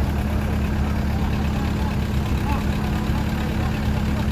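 Heavy truck engine running steadily at a constant speed, a low hum with a steady higher tone above it.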